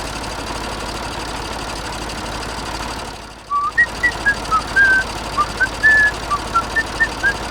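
A steady hiss, then from about halfway through a string of short whistled chirps at shifting pitches, a few a second.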